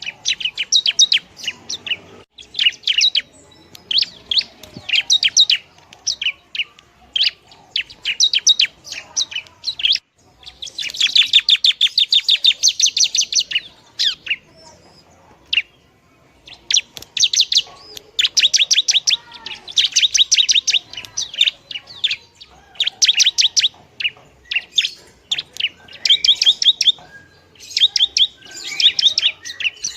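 Long-tailed shrike (pentet) singing: rapid chattering phrases of sharp high chirps with short pauses between them, including a long fast run about ten seconds in.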